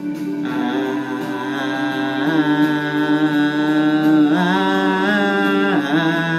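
Music: a singing voice holding long wordless notes, stepping to a new pitch about every two seconds.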